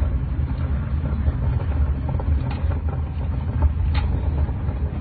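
Strong storm wind rumbling and buffeting against the microphone: a deep, uneven roar with a few faint knocks.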